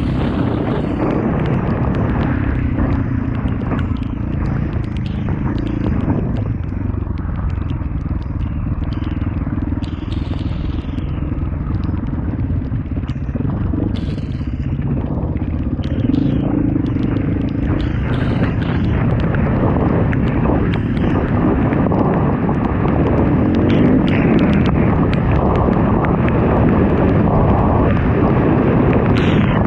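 Off-road motorcycle engine running steadily as the bike is ridden, mixed with wind noise on the microphone.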